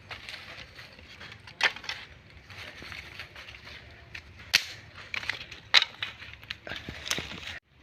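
Irregular rustling and crunching with sharp snaps and knocks, the loudest about halfway through and again a second later; it cuts off abruptly near the end.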